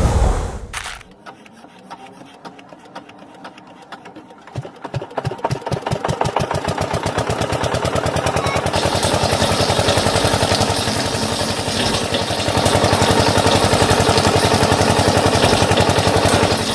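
A small engine starting up: slow chugs from about four seconds in quicken into a fast, steady running rhythm, which grows a little louder near the end.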